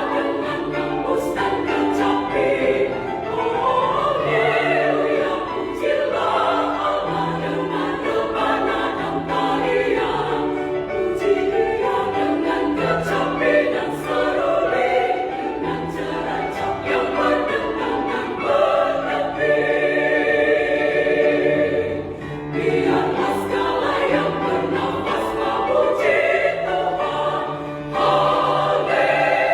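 Women's choir singing in parts, with a long held chord about two-thirds of the way through.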